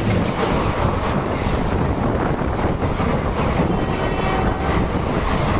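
Passenger train running, a steady rumble and rush of rolling and air noise, with wind buffeting the microphone.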